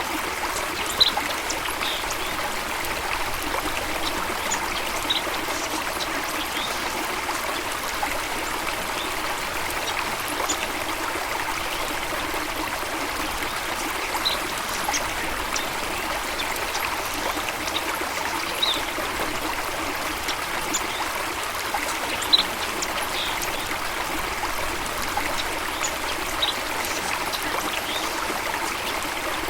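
Stream water running steadily over rocks, a continuous rushing trickle. A few short high chirps sound at scattered moments over it.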